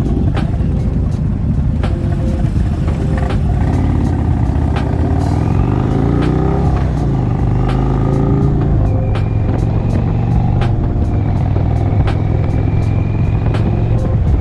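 V-twin cruiser motorcycles running at road speed, their engine note rising and then falling around the middle. Background music with a steady beat plays over it.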